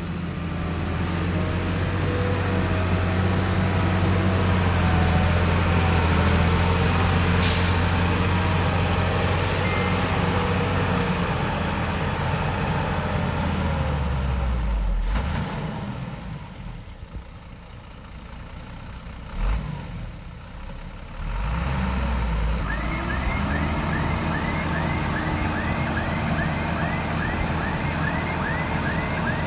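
Heavy diesel engine running steadily, with a short sharp hiss about a quarter of the way in. The engine sound drops away for several seconds, then comes back, and a reversing alarm starts beeping about twice a second.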